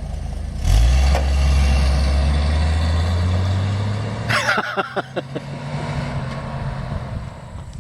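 Stock Dodge D150 pickup's 225 slant-six engine floored from a stop, coming in suddenly about a second in and climbing slowly in pitch, then fading as the truck pulls away. The tires don't break loose: it gets no rubber.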